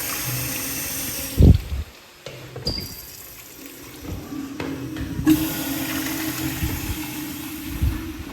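Commercial restroom fixtures flushing with a loud rush of water. One flush is already running and stops about two seconds in, and another starts about five seconds in. A few dull thumps come between them.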